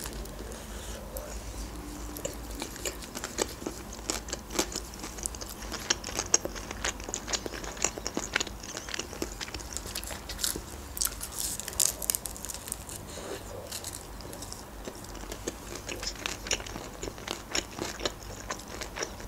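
A person chewing a mouthful of chicken shawarma wrapped in flatbread, with many small wet clicks and crackles from the food and mouth.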